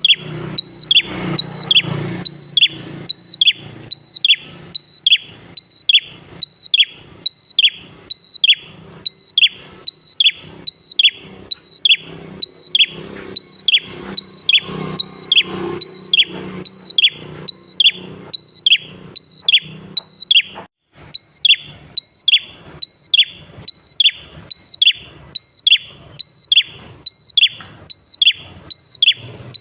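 Prenjak klawu songbird giving a fast run of identical high calls, about one and a half a second, each note held briefly and then sliding sharply down. A faint low hum sits underneath.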